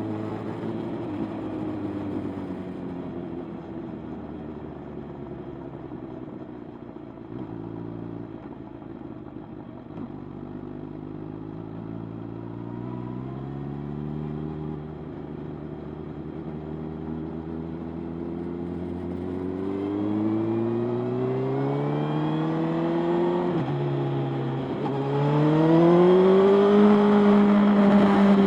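Motorcycle engine under way, running steadily at first, then accelerating through the gears: its pitch climbs, dips briefly at each gear change, and climbs again. It is loudest near the end, holding a steady note.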